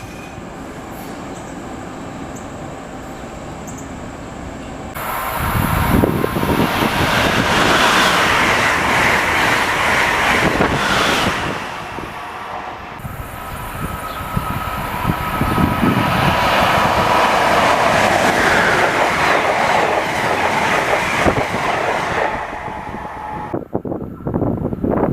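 Passenger train passing close by: a steady rush of steel wheels on rail with clickety-clack, building sharply about five seconds in, easing briefly near the middle, rising again and dropping away near the end.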